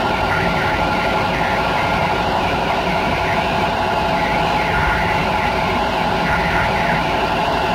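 Steady running noise of an Intercity passenger train at speed, heard from inside its rear coach: wheels rolling on the rails with a low rumble and a steady hum of several tones.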